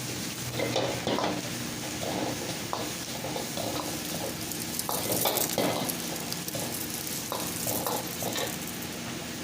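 Chicken with onion and spices sizzling in hot oil in a pan while being stirred, the utensil scraping the pan about every half second over a steady sizzle.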